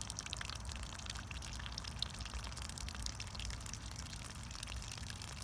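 Water running and dripping from an outdoor spigot, a steady trickle with many small irregular drips and splashes.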